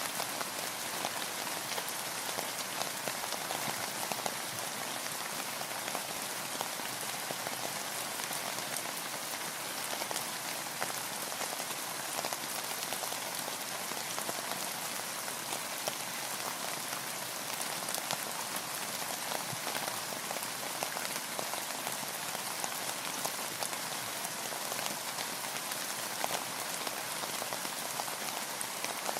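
Steady rain falling, with many small drop ticks over an even hiss of rain.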